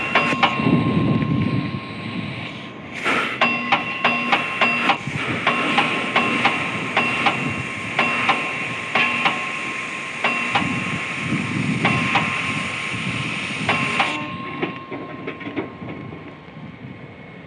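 Hammer blows on steel at an anvil, each strike ringing with a metallic tone. Quick runs of several strikes a second alternate with single blows spaced about half a second to a second apart, over a steady background hiss.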